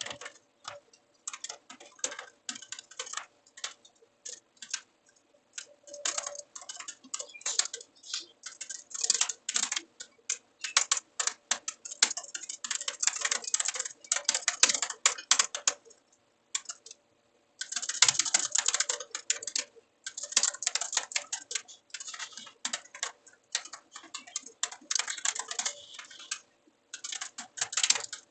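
Typing on a computer keyboard: rapid, irregular runs of key clicks with short pauses, one longer pause about 16 seconds in, over a faint steady hum.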